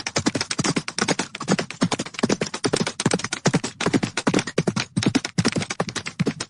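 Galloping horses' hooves striking the ground: a fast, unbroken run of heavy thuds, several a second.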